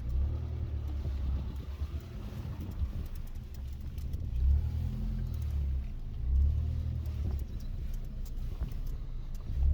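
Mitsubishi Pajero iO's 2.0-litre petrol engine and drivetrain running with a low rumble that swells briefly three times.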